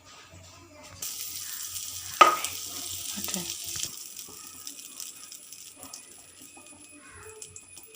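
Butter sizzling as it melts in a hot frying pan with leftover oil, starting about a second in, strongest for a few seconds and then fading. A single sharp knock, like a utensil against the pan, a little after two seconds.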